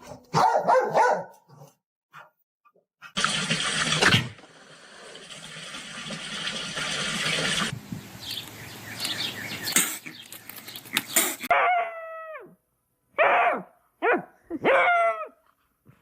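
A dog barking and whining, ending in several short calls that fall in pitch. About three seconds in comes a loud rush of noise, followed by a steadier noisy stretch.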